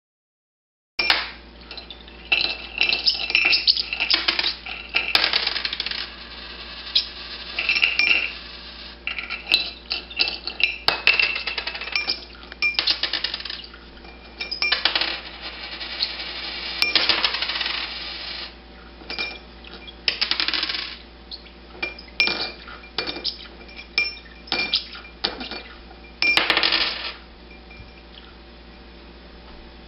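Coins tossed by a parrotlet clinking and clattering into a glass dish and onto the floor, again and again at irregular intervals, each hit followed by a brief metallic ring. It starts about a second in.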